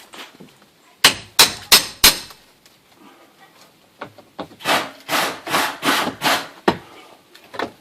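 A hammer striking wood four times in quick succession, then a run of about five rasping strokes on wood, as old garage door framing is torn out.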